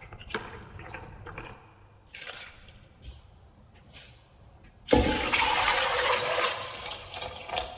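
A few faint clicks and knocks. Then, about five seconds in, a sudden loud rush of water that lasts a couple of seconds and tails off.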